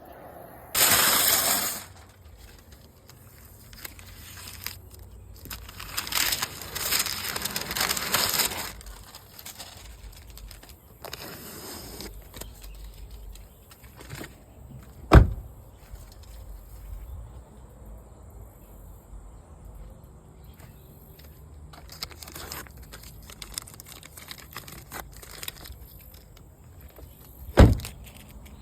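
Aerosol spray paint can spraying in hissing bursts: a short one about a second in, then a longer broken run from about six to eight and a half seconds in. Two sharp knocks stand out, one midway and one near the end.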